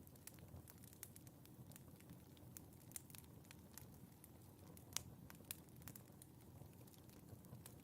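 Fireplace fire crackling softly, with scattered small pops and one sharper pop about five seconds in, over a low rumble.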